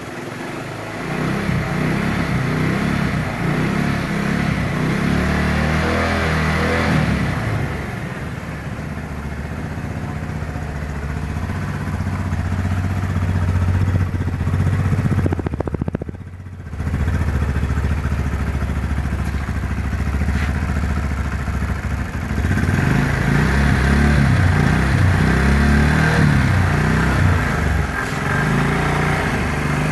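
Motorcycle engine running on an HHO hybrid gasoline vapor carburetor, revved up twice with steadier running in between; the sound dips briefly about halfway through.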